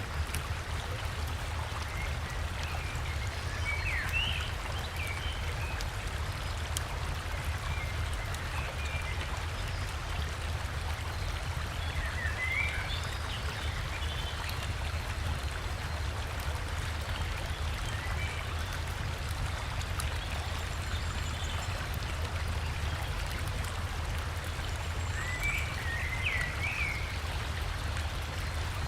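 River water running steadily with a deep rumble underneath. Short bursts of forest bird chirping break through three times: one near the start, one in the middle and one near the end.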